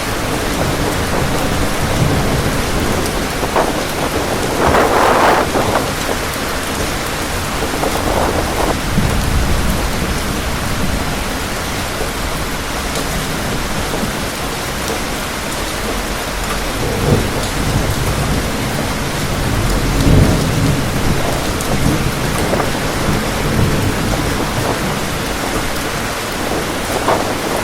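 Heavy rain falling steadily with wind, swelling now and then, and a few low rumbles.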